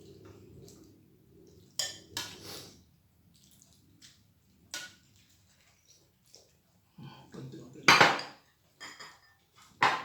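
Tableware clinking during a meal: spoons and forks knocking on plates and bowls in scattered sharp clinks, with a louder, longer clatter about eight seconds in.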